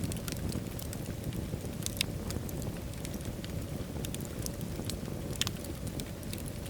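Wood fire burning in a fireplace: a steady low rumble of flame with scattered sharp crackles and pops, two louder pops about two and five seconds in.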